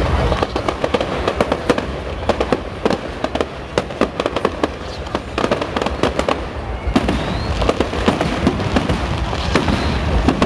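Fireworks going off in a dense, continuous run of sharp bangs and crackles over a low rumble. A short rising whistle sounds about seven seconds in.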